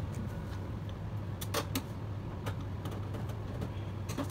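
Small, irregular clicks and taps of hand tools handling an opened hard drive during a head swap, over a steady low hum.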